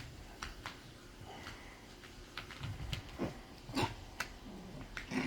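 Havanese puppies wrestling and scuffling: scattered light clicks and taps with a few soft knocks from about two and a half seconds in.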